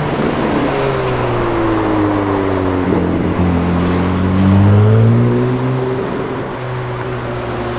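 Ferrari sports car's engine running at low revs as it rolls slowly past. The pitch dips, then rises briefly with a light throttle blip about four to five seconds in, the loudest point, before settling into a steady low note.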